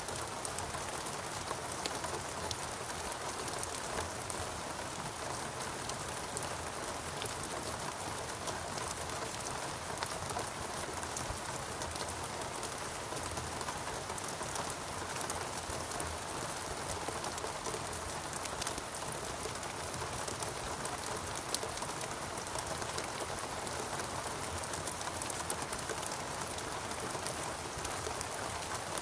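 Steady rainforest rain: an even hiss of rainfall with many individual drops ticking sharply on top of it, unchanging throughout.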